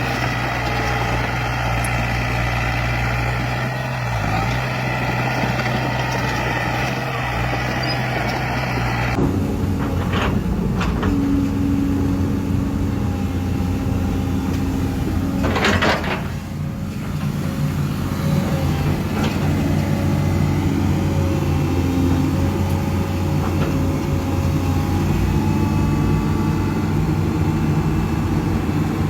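Heavy diesel construction machinery running steadily. About a third of the way in the engine sound changes abruptly to a different machine, and about halfway through there is a short, loud hiss.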